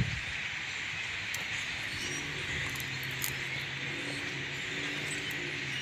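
A huge flock of blackbirds calling all at once: a dense, continuous chatter with scattered sharp chips. A faint low steady hum comes in about two seconds in.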